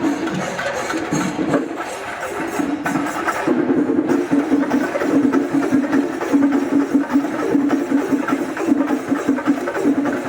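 Kerala temple-festival percussion ensemble playing: fast, dense drumming with a sustained droning tone running underneath.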